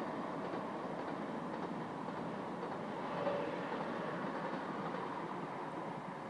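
TGV Lyria high-speed train running past along the tracks: a steady rolling rumble of wheels on rails with some clickety-clack, and a brief louder note about three seconds in.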